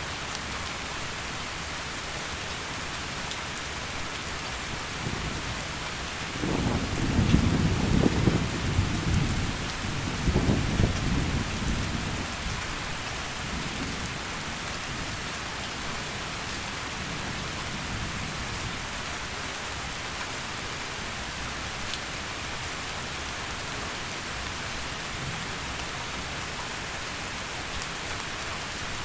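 Heavy rain falling steadily, with a rolling rumble of thunder that builds about five seconds in, is loudest over the next several seconds and dies away by about halfway through.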